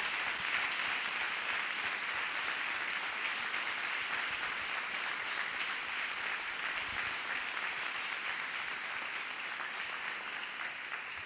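Congregation applauding, a dense, steady clapping that fades a little near the end.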